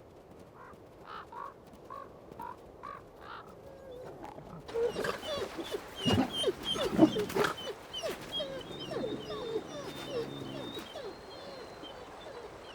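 Gray wolves yelping and whining, with short gliding calls that start faint and become louder and busier about five seconds in, along with a few sharp snaps. High chirps run above them.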